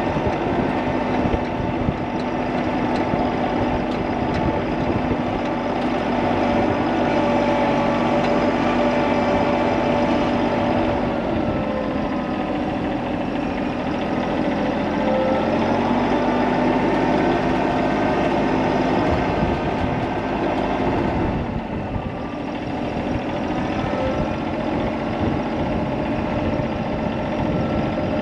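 A heavy vehicle engine running steadily, its pitch shifting a few times as the engine speed changes.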